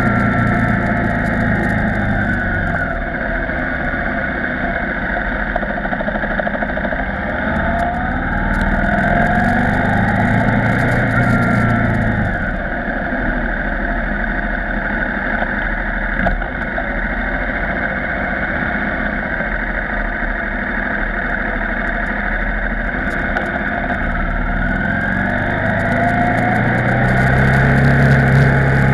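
KTM 990 Supermoto R's LC8 V-twin engine running on the move at low road speed, its pitch rising twice as it accelerates (about eight seconds in and again near the end) and falling back as it slows between, over a steady rush of wind.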